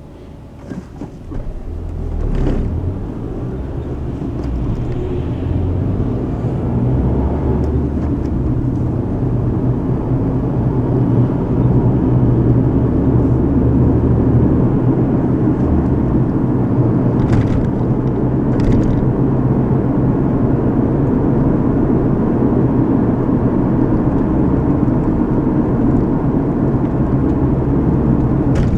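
Car road noise heard from inside the cabin: the engine and tyres drone louder over the first ten seconds or so as the car gathers speed, then run steadily. A few faint clicks come through, two near the start and two more after the middle.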